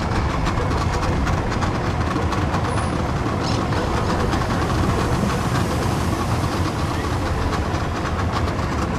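Boat engines idling with a steady low rumble.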